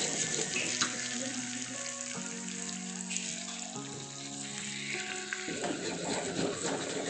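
Raw chicken pieces frying in oil and ground spices in a wok, a steady sizzle, with a spatula stirring and scraping them through the pan.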